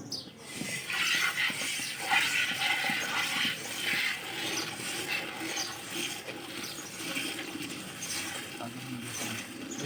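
Milk squirting in streams into a pail as a Banni buffalo is milked: a continuous, uneven rushing of liquid, loudest in the first few seconds.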